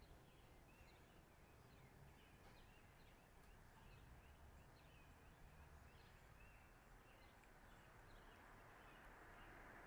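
Near silence: faint outdoor ambience with distant birds chirping over and over in short, high calls.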